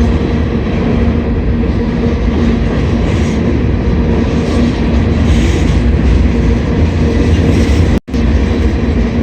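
Slow freight train rolling by, with a steady rumble of wheels on the rails and a steady low hum. The sound drops out for an instant about eight seconds in.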